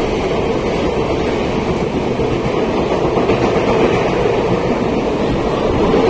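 Indian Railways passenger coaches passing at speed through a station: a steady, loud rush and rumble of the wheels running on the rails.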